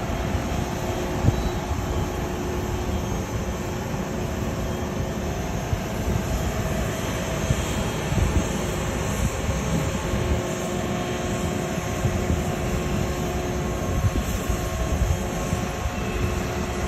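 An engine running steadily, a continuous drone with a heavy low rumble underneath.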